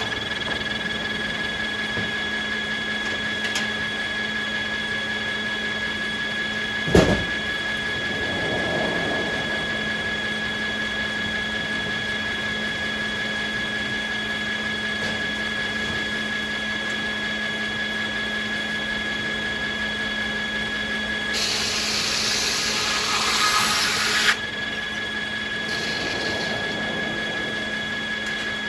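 Sawmill machinery running with a steady whine. A single loud clunk comes about seven seconds in, and a burst of loud hissing noise lasts about three seconds past the two-thirds mark.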